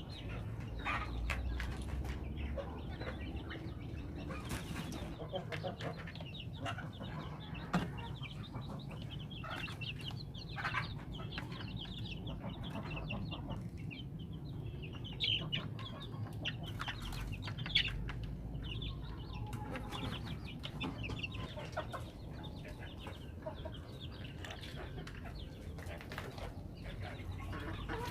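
A flock of domestic chickens clucking on and off, short scattered calls over a low steady rumble, with a few sharp knocks.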